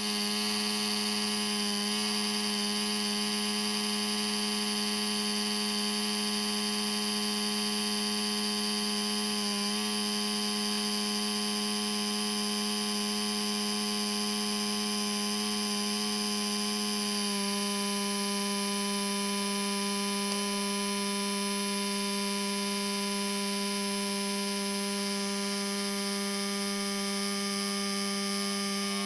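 Laptop cooling fan running with a steady whine and buzz, its tone changing slightly a little past halfway. It is the abnormal fan noise of a laptop whose CPU overheats and shuts down.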